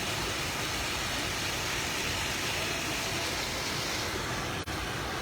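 Steady outdoor street noise dominated by road traffic, an even wash of sound, with a momentary drop-out near the end.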